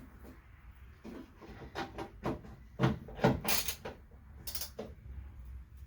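Ratchet wrench and socket working a bolt: a run of irregular metal clicks and clanks, loudest a little after halfway.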